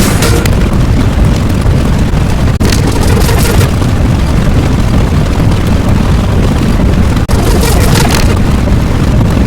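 A loud, steady low rumble, like an engine or blast sound effect, broken by two very short gaps, one about two and a half seconds in and one about seven seconds in, each followed by a short burst of hiss.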